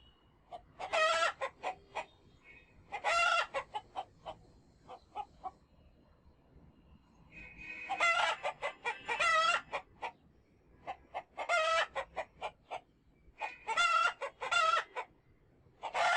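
Chickens cackling and clucking: loud calls in clusters every two to three seconds, each a longer note or two followed by quick short clucks.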